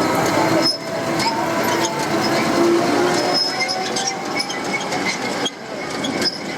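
Manyo Line tram running along its track, a steady running noise with a held tone under it and scattered clicks, dipping briefly about a second in and again near the end.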